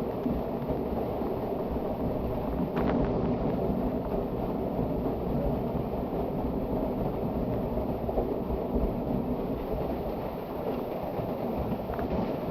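Rushing water of a canyon cascade, heard as a steady dull rumble, with a faint click about three seconds in.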